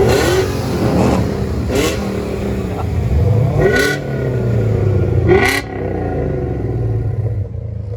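Car engines revving hard, their pitch rising and falling over a steady low rumble, with four short sharp noises spaced out through the first six seconds.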